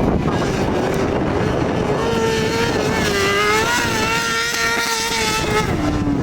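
Motorcycle engine held at high revs, its pitch wavering up and down, then dropping sharply near the end as the throttle comes off.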